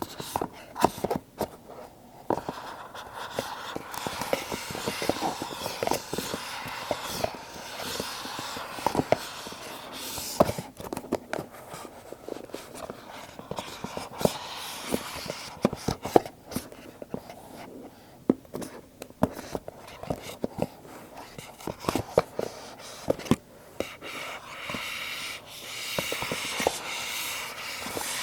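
Hands handling Apple product boxes up close: irregular sharp taps and clicks on the smooth cardboard over a steady scratchy rustle.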